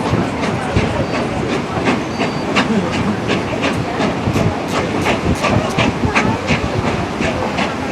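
Narrow-gauge steam locomotive #40 working hard upgrade, its exhaust chuffing in sharp beats about three a second over a steady hiss and train rumble.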